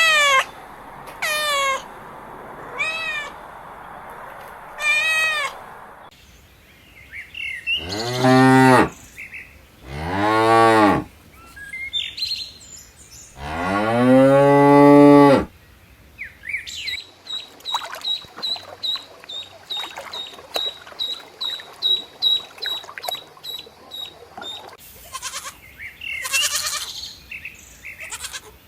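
Cattle mooing: three long moos that rise and fall in pitch, the last the longest and loudest. Before them come four short high-pitched calls, and after them a fast run of high chirps, about four a second.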